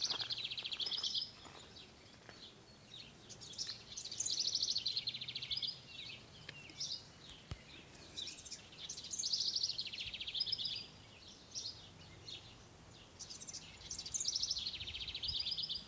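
A songbird singing the same short song four times, about every five seconds: a few high notes running into a fast trill that slides down in pitch.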